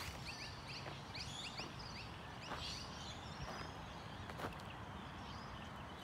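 Faint outdoor ambience with a small bird twittering: a quick run of short rising chirps in the first two seconds, then a few scattered chirps and soft clicks.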